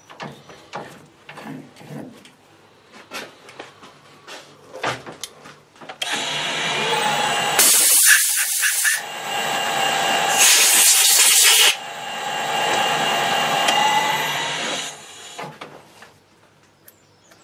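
A few seconds of light clicks and knocks, then a power tool or machine starts about six seconds in and runs steadily for about nine seconds, with two short, much louder hissing stretches in the middle before it stops.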